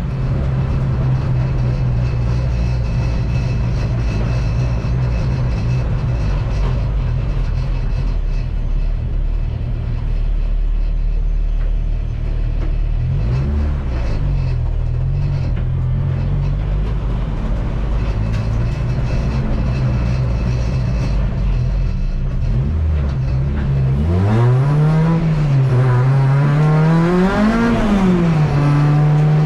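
Honda K24 2.4-litre four-cylinder engine in a Civic race car running hard at steady revs. Near the end the revs rise and fall several times.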